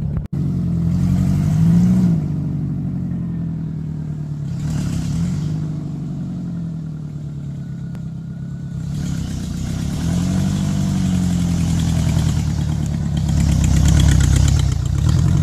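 VW bus engine running just after a hard start, revved up and down a few times. From about nine seconds in a rushing noise joins it, loudest near the end.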